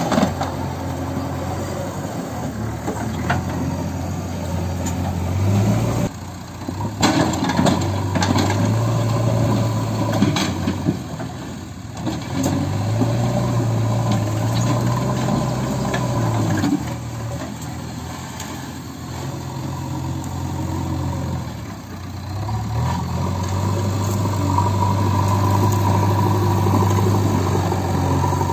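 Heavy diesel engine running under load, revving up and easing back down several times, with occasional knocks.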